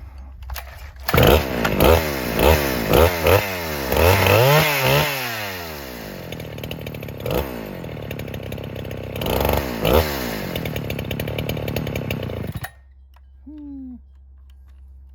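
NeoTec NH895 two-stroke chainsaw (a 395XP clone) blipped through a run of short revs, then running more steadily with two more revs, before it stops abruptly about two seconds from the end. It is a new saw's first start-up, with an idle that sits high and won't adjust at the carburetor.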